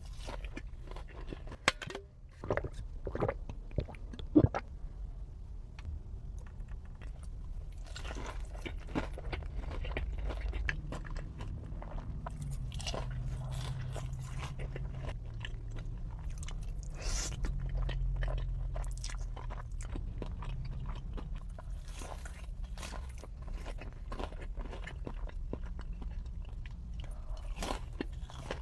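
A person eating close to the microphone: repeated crunchy bites and chewing with sharp wet mouth clicks, a few louder crunches in the first few seconds.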